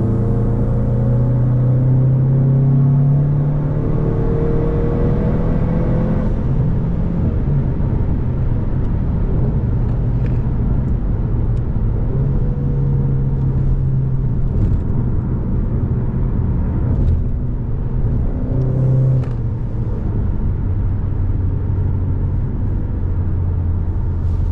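Car engine running steadily while driving, a low drone with a slight rise in pitch about four to six seconds in.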